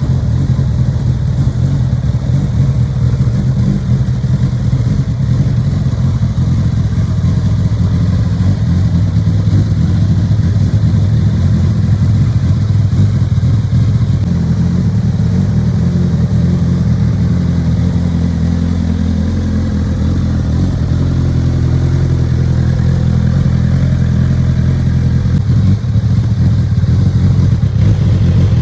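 2013 Honda CBR1000RR Fireblade's inline-four engine idling steadily through an aftermarket Scorpion exhaust.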